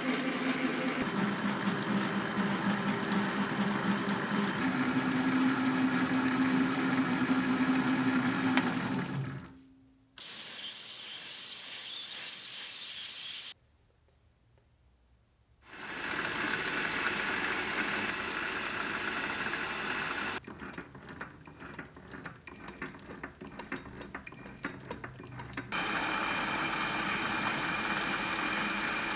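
Steady machine noise from workshop power tools at work, in several clips cut together. It changes abruptly between clips, with a near-silent gap of about two seconds near the middle and a choppy, stop-start stretch after it.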